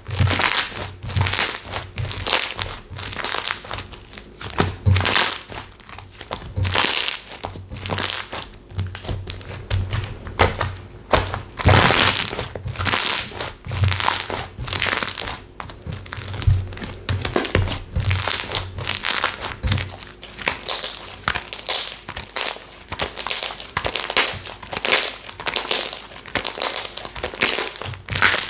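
Slime being pressed, squeezed and stretched by hand, making repeated crackling, crunching pops about one or two times a second.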